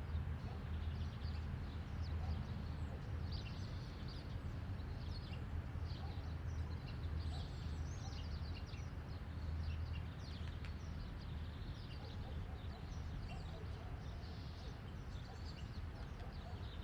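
Small birds chirping repeatedly in quick short calls, over a steady low hum.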